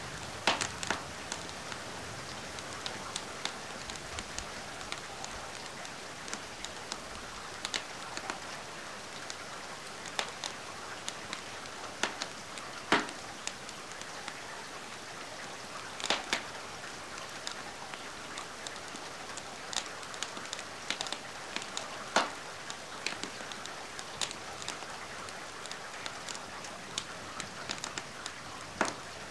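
Steady rain falling, mixed with a wood fire crackling: sharp pops stand out every few seconds over the even hiss of the rain.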